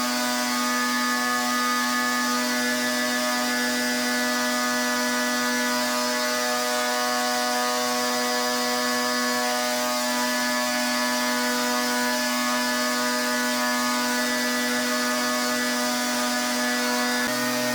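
Pressure washer running steadily: one constant, unchanging drone over an even hiss of spray.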